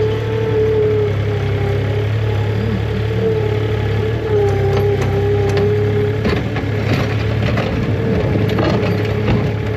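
Tractor engine running steadily under a wavering whine, with scraping and clattering joining in from about four seconds in.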